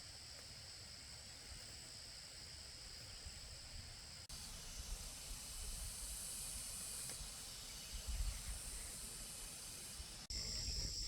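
Steady high-pitched chirring of insects. About four seconds in it cuts suddenly to a broader high hiss, and it cuts back to the chirring near the end, over a low rumble.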